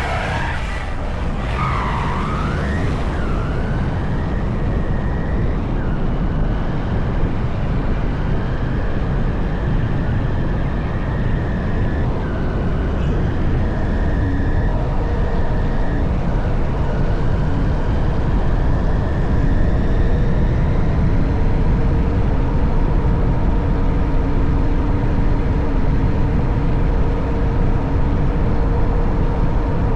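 Honda CB190R's single-cylinder engine running under way, its pitch holding steady and shifting as the bike changes speed, with a dip and rise in pitch about two seconds in. Heavy wind rumble on the microphone underneath, growing slightly louder toward the end.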